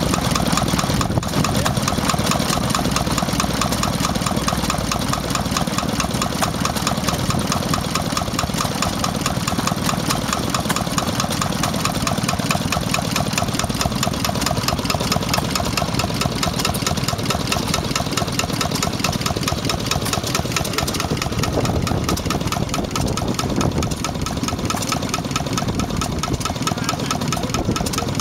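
Enfield stationary engine running steadily with a fast, even knocking beat.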